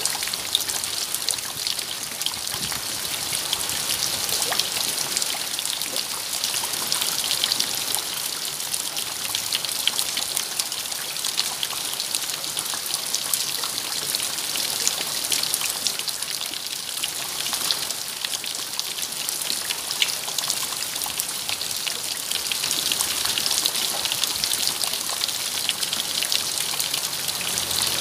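Steady rainfall, many fine drops pattering densely on surfaces.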